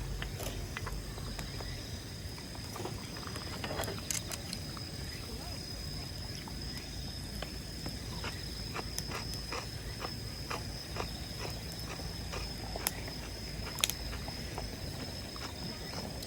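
Wood campfire crackling, with scattered sharp pops at irregular intervals and a few louder ones near the end. A steady high thin tone runs underneath.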